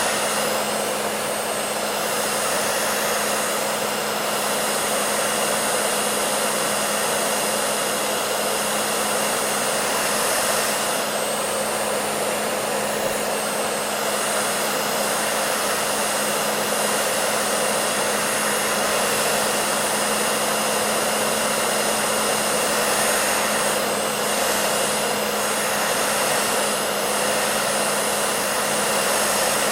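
Hair dryer running continuously: a steady rush of blown air over a constant motor hum.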